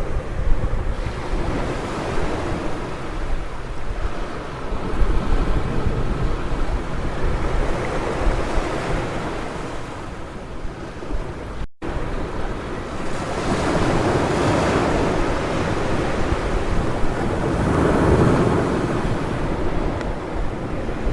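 Ocean surf washing onto a beach in a steady rush, with waves swelling louder a little past halfway and again near the end, and wind buffeting the microphone. The sound drops out for a split second near the middle.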